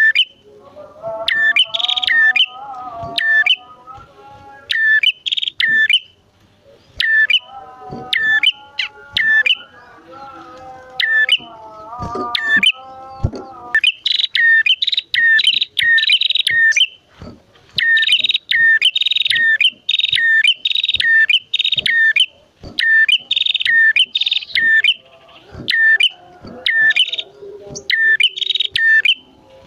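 A male and a female prenjak calling together, the loud, energetic calling that keepers call gacor. Quick bursts of sharp, high chirps repeat throughout, and a lower, wavering call from the second bird joins twice in the first half.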